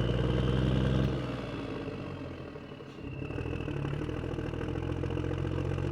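Vehicle engine running at idle with a steady low hum, dying down about two to three seconds in and then picking back up.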